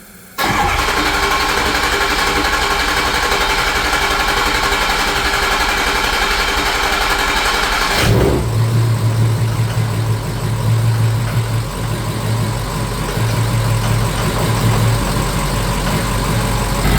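2006 Ford F-350's 6.0 Powerstroke V8 diesel cranking on the starter for about seven and a half seconds, then catching about eight seconds in and running at a steady idle. It is starting again after the failed high-pressure oil O-ring was replaced.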